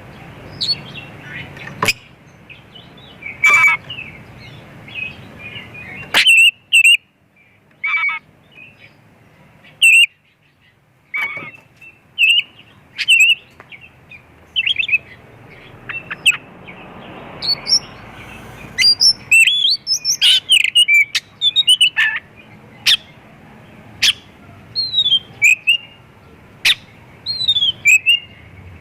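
Oriental magpie-robin (kacer) singing hard: a varied run of short, sharp whistles, chirps and falling notes in quick phrases with brief pauses between them, the kind of song packed with mimicked phrases of other birds.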